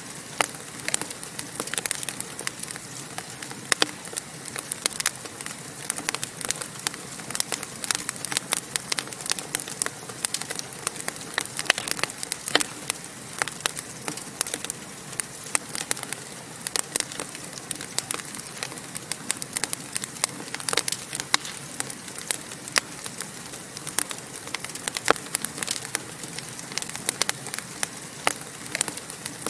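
Wood fire crackling in a fireplace: a steady hiss of burning with many sharp pops and snaps scattered throughout.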